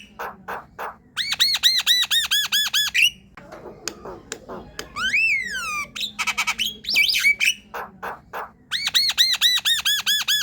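Javan myna chattering song. Two runs of rapid repeated arched whistled notes, about four a second, with a single rising-then-falling whistle in the middle and harsh clicks and squawky notes in between.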